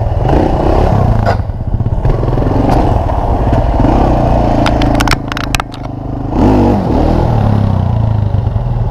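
Small off-road engine running close by, its pitch rising and falling with the throttle, with a quick burst of sharp clicks and clatter about five seconds in.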